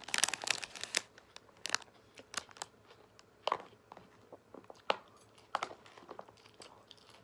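Close-up crunching and crinkling while eating: a dense run of crisp crackles in the first second, then scattered single crunches.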